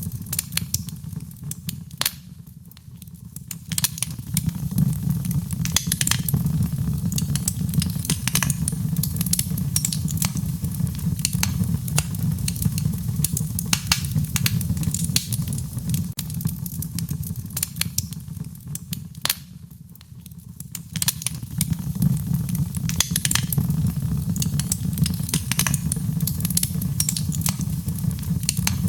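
A wood fire burning, with dense, irregular crackles and pops over a low, steady rumble. The crackling thins out briefly twice, once a couple of seconds in and again about two-thirds of the way through.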